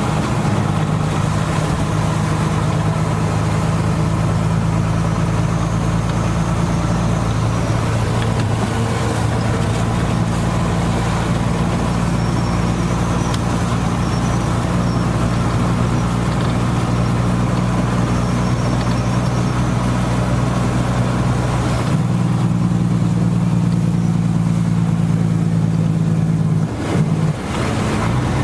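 A motor runs steadily with a low hum over a constant hiss of rain. The hum shifts slightly about two-thirds of the way through and dips briefly near the end.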